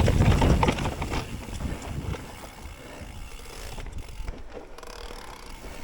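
Mountain bike rolling over rough trail, with knocks from the ground and wind buffeting the microphone; loudest in the first second or so, then quieter.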